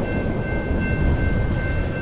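BNSF freight train running past with a steady low rumble, with a thin high steady tone held over it.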